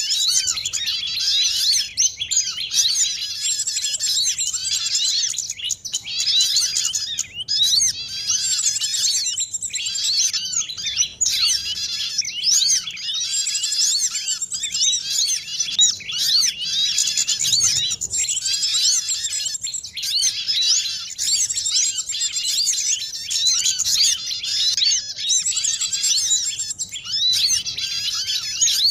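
Dense, unbroken chorus of many small songbirds chirping and twittering at once, rapid high-pitched notes overlapping with no pause: a bird-trapping lure recording that mixes the calls of several small species such as sogon, korlap, white-eyes (pleci), kemade and prinias (prenjak).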